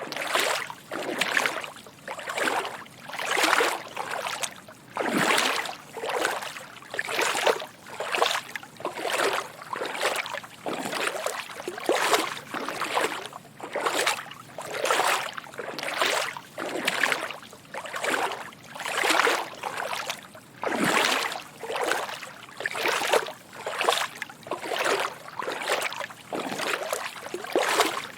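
Footsteps wading through shallow water: a steady run of soft sloshing splashes, roughly one to two steps a second.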